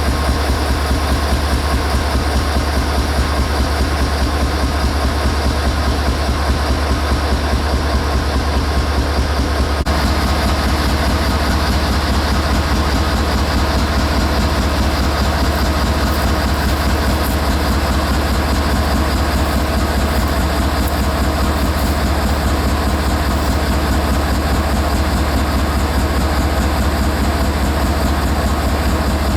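Steady, loud rumble of a diesel locomotive running, with a short break in the sound about ten seconds in.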